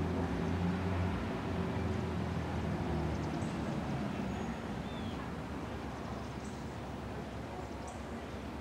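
Diesel train rumbling in the distance, a low hum that eases off after about three and a half seconds, with a few short high bird chirps.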